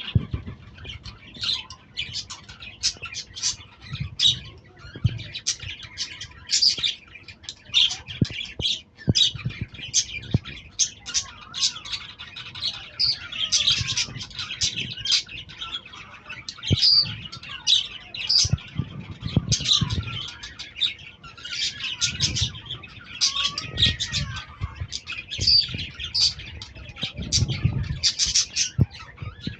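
A group of small pet parrots chattering nonstop, with a dense mix of shrill chirps and squawks overlapping one another. Occasional low thumps sound under the calls.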